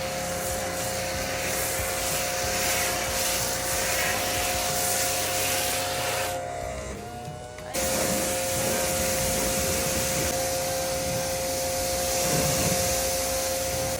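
Pressure washer running, with a steady motor whine under the hiss of water spraying through a foam cannon nozzle. About six and a half seconds in, the spray cuts out and the whine wavers. A second later both start again abruptly, as when the trigger is released and squeezed again.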